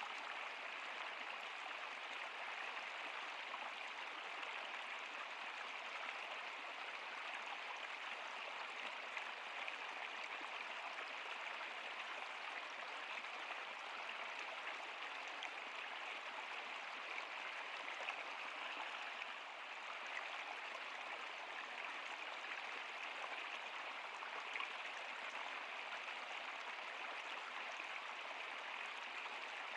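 Stream water flowing steadily: a continuous, even rushing with no breaks.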